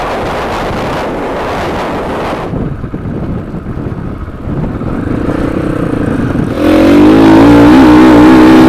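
Dirt bike engine on a helmet camera, with a rush of wind noise at first; about two-thirds of the way in, the engine climbs in pitch and becomes loud as the rider accelerates, its pitch wavering with the throttle.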